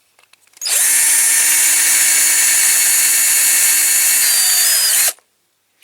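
Electric drill running for about four seconds while drilling out a rivet post on a diecast toy's base, a steady motor whine whose pitch sags slightly near the end before it stops suddenly.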